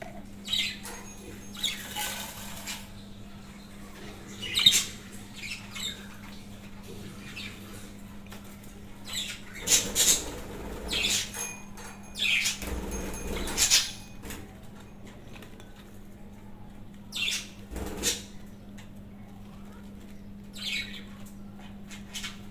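Pet budgerigar giving short, scattered chirps and squawks every second or few, with some rustling in between, over a steady low hum.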